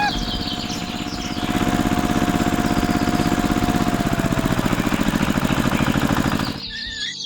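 Tractor engine running with a steady, rapid chug that grows louder about a second and a half in and cuts off suddenly near the end.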